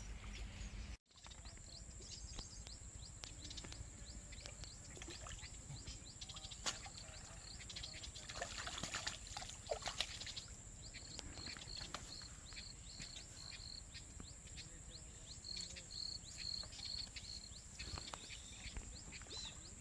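Faint outdoor ambience by water, with light trickling and splashing and a steady high background tone. Through the second half a short high chirp repeats about three times a second.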